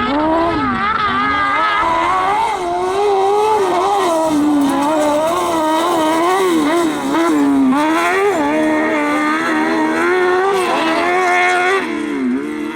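Competition vehicle's engine revving hard and easing off again and again through a dirt slalom run, its pitch swinging up and down every second or so.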